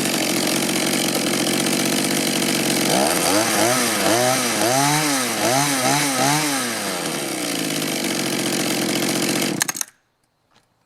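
Mantis mini tiller's two-stroke engine running after a carburetor tune-up, revved up and down several times from about three seconds in, then settling and cutting off suddenly near the end.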